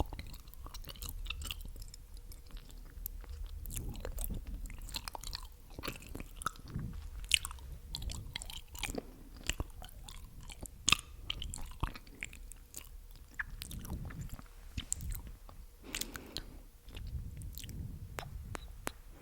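Close-miked ASMR mouth sounds: a long run of wet, sticky clicks and smacks from the tongue and lips, irregular and rapid, with a couple of louder pops.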